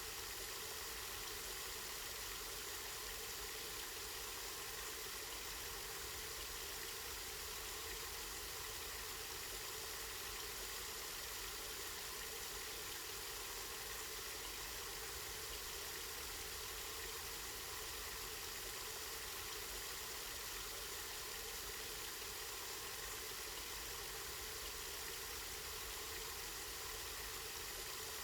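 Water from a spring running and splashing steadily, an even, unchanging rush.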